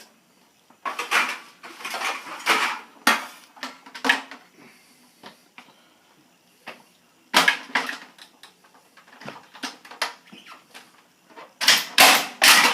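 Hard plastic parts of a Keurig coffee maker being handled, with irregular clattering, clicks and knocks. The clatter is busiest near the end.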